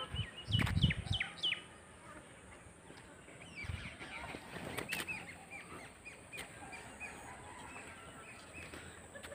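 Small birds chirping: many short, high, falling calls repeated over and over. A few low, muffled thuds come in the first second or so.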